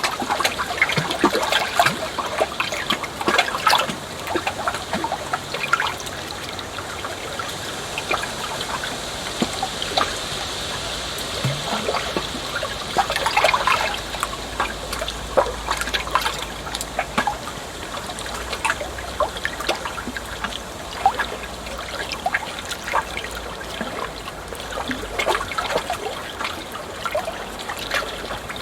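Flowing water trickling steadily, with many small splashes and bubbles.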